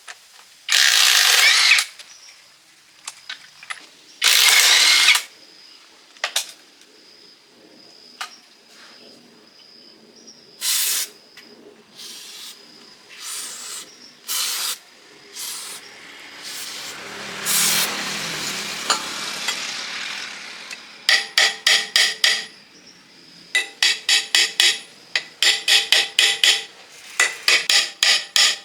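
Power tool run in short bursts of about a second, then over the last third in quick, repeated pulses.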